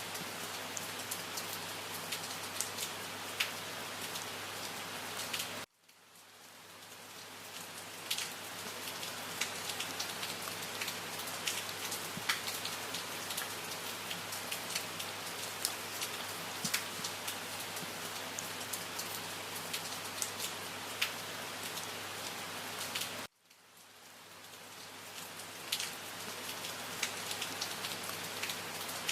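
Steady rain falling on a surface, individual drops ticking over a dense, even hiss. Twice, the sound cuts out abruptly and swells back up over a couple of seconds.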